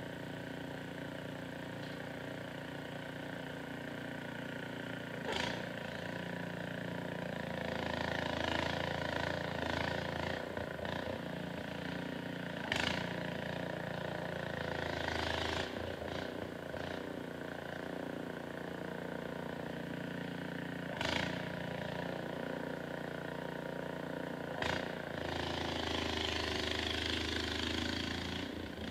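A small engine running steadily, with a few sharp knocks and several stretches of rushing, hissing noise over it.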